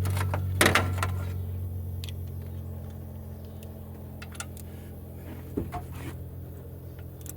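A steady low engine-like hum slowly fading away, with a few sharp metallic clinks, the loudest cluster about half a second in.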